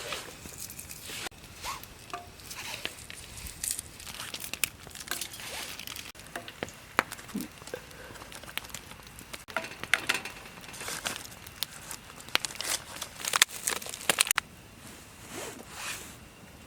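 Irregular crinkling and crackling, like packaging or a bag being handled, with many sharp crackles that get busier and then cut off suddenly near the end.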